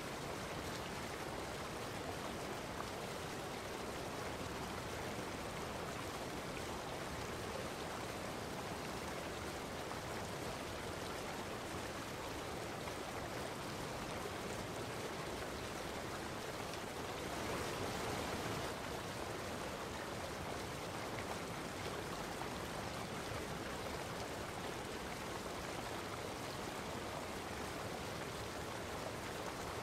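Steady rushing of running water, swelling slightly a little past the middle.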